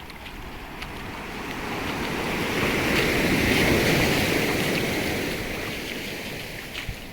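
Sea wave surging and washing in: a rush of water noise that swells to a peak midway and then ebbs away.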